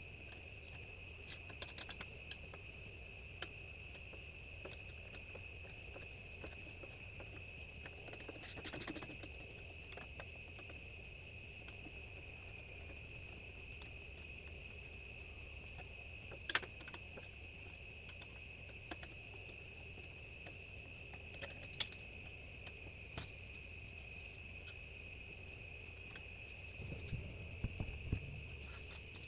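Ratchet spanner clicking in short scattered bursts while undoing go-kart hardware, with a quick run of clicks about nine seconds in, a few single knocks, and more clicking near the end. A steady high-pitched whine sits under it.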